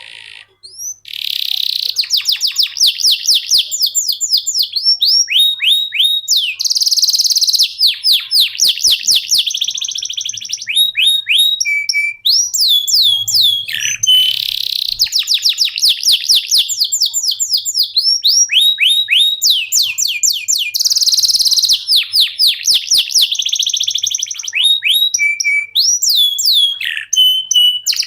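Male domestic canary singing nonstop as a long-singing 'loper'. The song is long unbroken phrases of fast trills and rolls of repeated high notes, mixed with quick down-sweeping chips.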